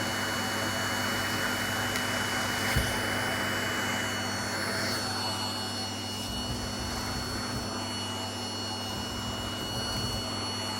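Vacuum cleaner running steadily, sucking up hair, its motor giving a constant hum and whine. The rushing-air hiss eases off about halfway through, and there is a single sharp click a little before that.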